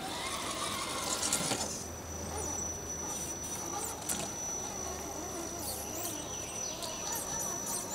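Outdoor ambience of short, high bird chirps, with a faint steady high-pitched whine starting about two seconds in.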